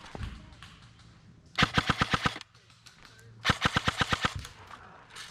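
Airsoft electric rifle firing two short full-auto bursts of about eight rapid shots each, the second about two seconds after the first.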